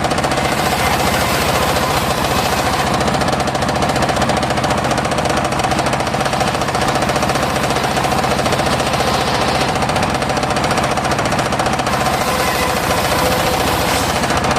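Homemade engine-driven circular saw rig running steadily while sawing mahogany: a fast, even engine beat under a steady whine.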